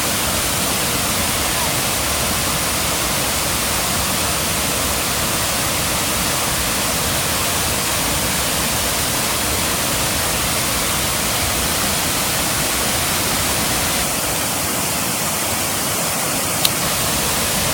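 Kuang Si Falls' water pouring down its cascades: a loud, steady rush of falling water. The sound shifts slightly about three-quarters of the way through, and a single sharp click comes near the end.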